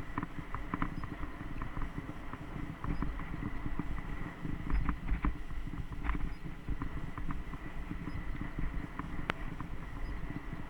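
Mountain bike being ridden over a dirt trail: a steady low rumble with frequent small rattling clicks from the bike, and one sharp click about nine seconds in.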